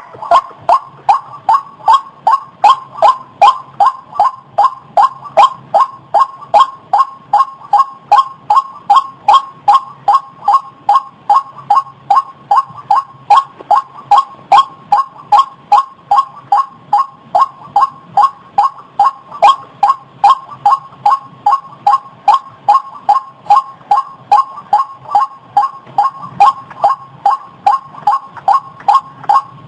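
White-breasted waterhen (ruak-ruak) calling over and over, a fast, even run of short, harsh falling notes at about two to three a second that never pauses.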